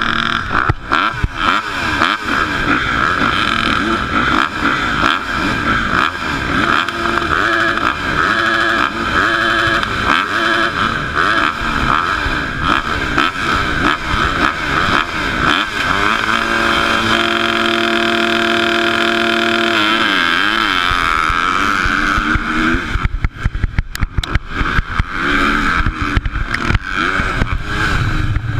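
Motocross bike engines revving, their pitch climbing and dropping again and again as several bikes accelerate and shift. Midway one engine holds a steadier note for a few seconds before the revving picks up again.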